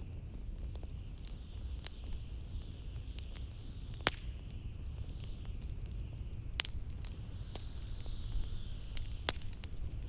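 Wood fire crackling in a fireplace, with sharp pops scattered irregularly, the strongest about four seconds in, over the steady low rumble of blizzard wind and a faint higher hiss that swells and fades.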